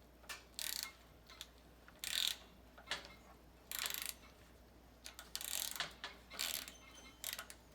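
Ratchet wrench clicking in short bursts, about one every second or so, while the bolts holding the circulator pump's motor are loosened.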